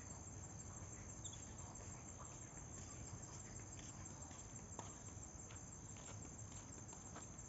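Crickets trilling steadily in a faint, high-pitched continuous chorus, with scattered soft ticks and a low rumble underneath.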